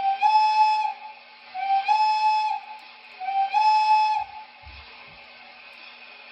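O scale model steam locomotive's sound-system whistle blown three times, each blast about a second long and sliding up a little in pitch as it starts, over a steady hiss and hum.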